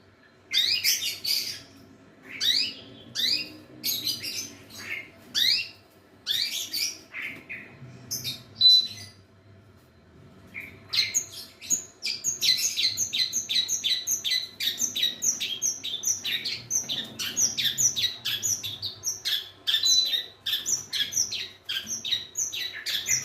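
Long-tailed shrike (cendet) singing: scattered sharp sweeping notes for about ten seconds, then a fast run of chattering notes, several a second, to the end.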